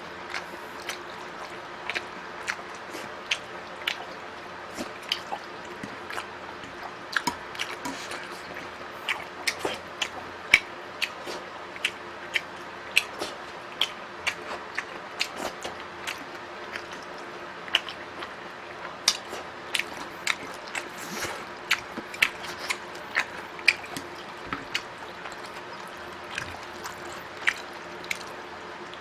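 Close-miked eating sounds: wet chewing, smacking and clicking mouth noises, coming irregularly and sometimes several a second, over a faint steady hum.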